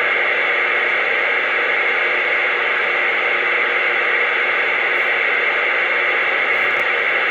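Steady hiss of static from a CB radio's speaker, with no station talking through it.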